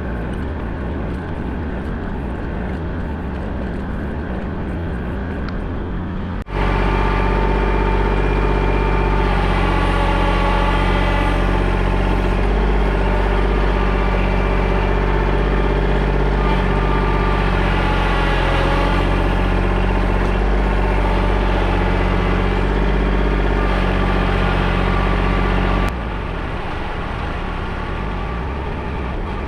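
Engine of a digging machine running steadily under load, louder from about six seconds in until near the end.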